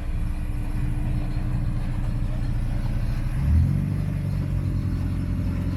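A car engine idling with a low, even rumble. The engine speed briefly rises about three and a half seconds in.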